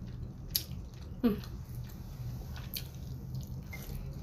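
A person chewing with the mouth close to the microphone: wet mouth clicks and smacks over a steady low hum. About a second in, a short falling hum-like voice sound.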